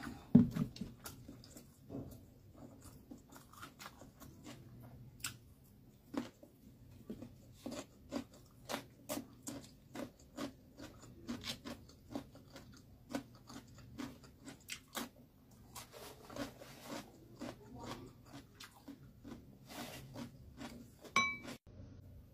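Close-miked chewing with repeated wet mouth clicks, at times about two a second. A loud thump about half a second in, and a brief ringing clink near the end.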